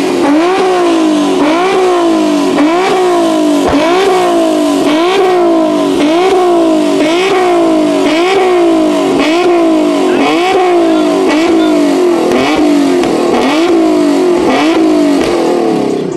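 Infiniti G-series sedan's V6 revved hard in place, over and over about once a second, the engine note climbing and falling with each blip.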